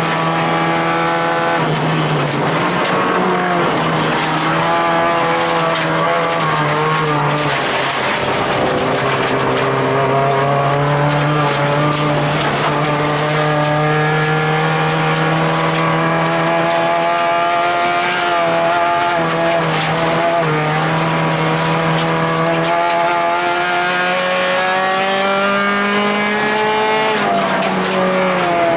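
Acura RSX rally car's four-cylinder engine, heard from inside the car at speed, its pitch climbing and dropping several times as it revs through the gears.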